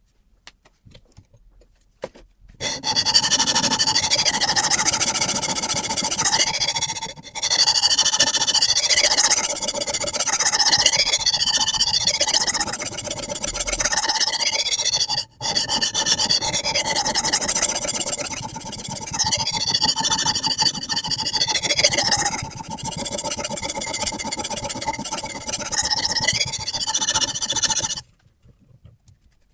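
A sharpening stone on a Hapstone RS guided sharpening system is rubbed back and forth along the edge of a carbon steel bushcraft knife blade, a steady gritty scraping. It starts a few seconds in, pauses briefly twice, and stops shortly before the end.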